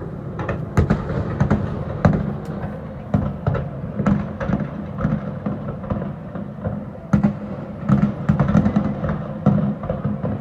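Fireworks going off in quick, irregular succession, a dense string of bangs and booms over a steady low rumble.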